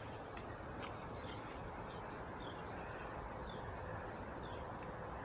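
Outdoor ambience: a steady, faint background hiss with insects and scattered short, high bird chirps.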